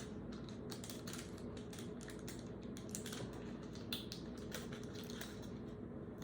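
Irregular light clicks and taps of trading-card packs and their box being handled, over a steady low hum.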